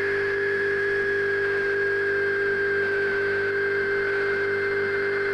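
Steady electrical transformer hum under a hiss of static, with a high whine, like feedback, that slowly drifts lower in pitch.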